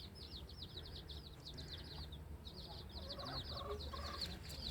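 A brood of newly hatched chicks peeping continuously, many short high chirps, each sliding down in pitch, several a second. A mother hen clucks low a few times about three seconds in.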